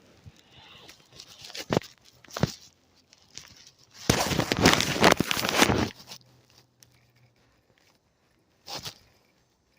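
Rustling and handling noise with a few sharp knocks. The loudest part is a scratchy rustle lasting about two seconds near the middle.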